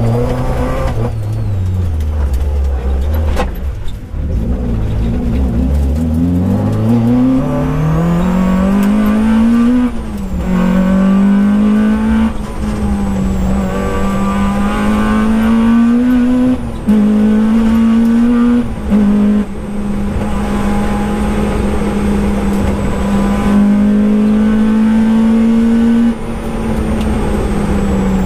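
Peugeot 205 GTi rally car engine heard from inside the cockpit, driven hard on a stage. The revs fall over the first few seconds, climb steadily for about six seconds, drop sharply at a gear change about ten seconds in, then stay high with a few brief dips as the driver lifts or shifts.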